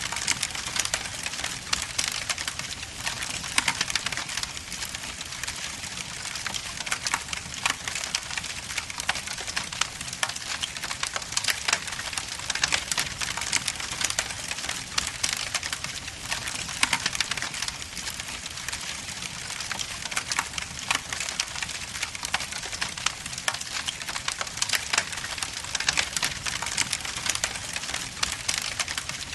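Log fire burning in a fireplace, crackling steadily with a dense run of small pops and snaps over a soft hiss.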